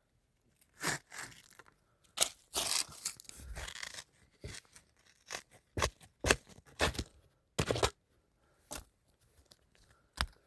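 Digging out a wild milkvetch root: a series of irregular scraping, crunching and tearing strokes in soil and roots.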